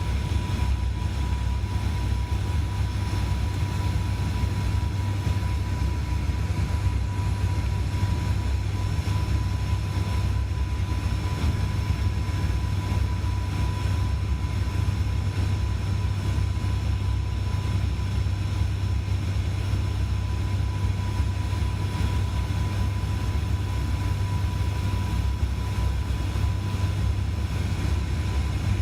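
Steady drone of an ATR 72-600's twin turboprop engines and propellers, heard inside the passenger cabin, with a deep hum and a steady high tone over it.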